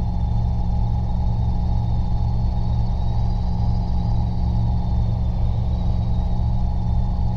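Robinson R22 helicopter heard from inside the cabin in flight: a steady, loud drone of engine and rotor with an even low pulsing, and a faint thin high whine above it.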